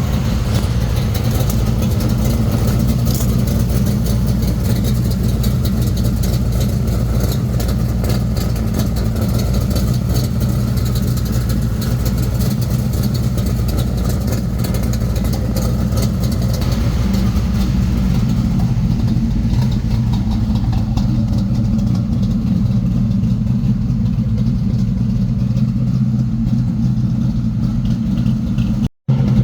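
Chevrolet small-block 400 V8 idling steadily through its newly installed exhaust. The sound cuts out briefly near the end.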